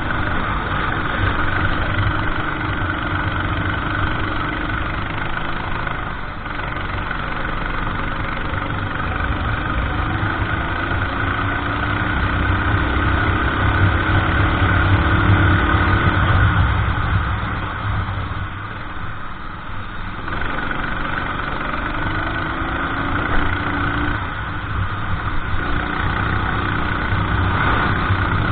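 Racing kart engine running at race pace, its note climbing for several seconds as it accelerates and dropping away briefly when the throttle is lifted for corners.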